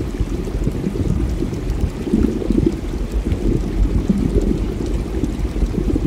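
Muffled, steady churning and bubbling of water in a reef aquarium, as if heard from inside the tank, with almost nothing above a low rumble.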